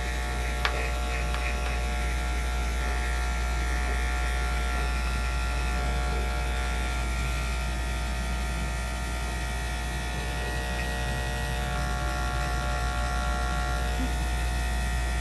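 Electric dog grooming clippers fitted with a #40 blade running steadily while trimming the hair around a puppy's paw pads.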